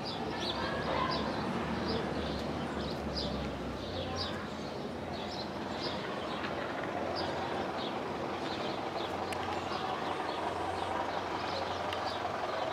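A small bird chirping over and over, about twice a second, above a steady outdoor background with a low hum.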